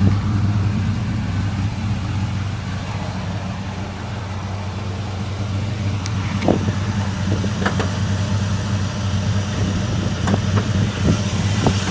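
Dodge Ram SRT-10's 8.3-litre V10 idling steadily, with a few sharp clicks over it around the middle and later on.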